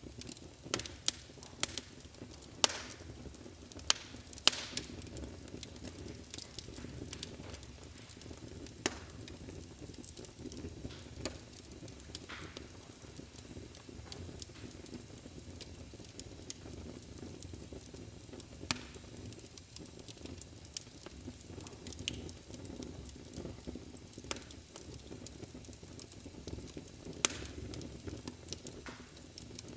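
Wood fire burning in a fireplace: a steady low rumble of flames with irregular sharp crackles and pops, several in quick succession near the start and sparser afterwards.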